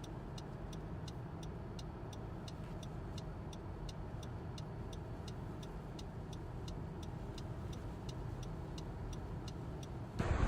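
Steady clicking of a car's turn-signal or hazard-light relay, about two or three clicks a second, over the low steady rumble of the car. Near the end it cuts suddenly to a loud rush of wind.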